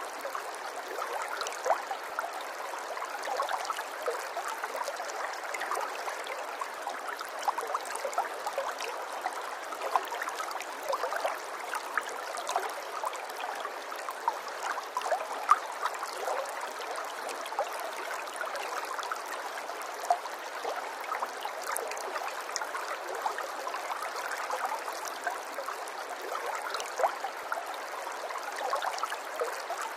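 Running water trickling and gurgling steadily, with many small splashes, like a shallow stream.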